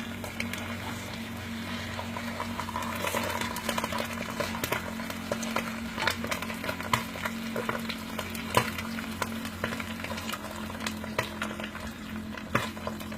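Food frying in a pan while it is stirred, a utensil scraping and clicking against the pan many times over a steady sizzle.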